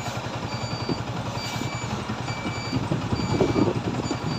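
A string of short, high electronic beeps repeating over a steady low mechanical rumble.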